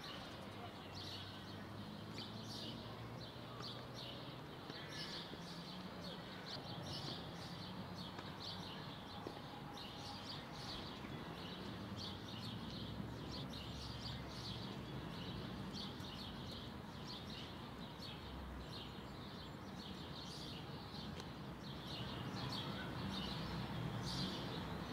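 Small birds chirping outdoors, with many short high chirps repeating all through, over a low steady hum.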